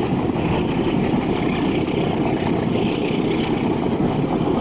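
Passenger train passing close by: a diesel locomotive hauling carriages, with a steady rumble of the wheels on the track.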